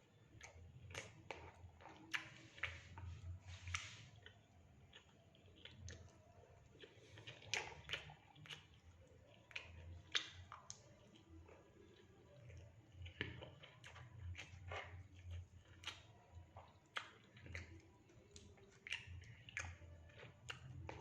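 Close-up chewing of a mouthful of fried rice and fried fish. Many short wet clicks and smacks come at an irregular pace.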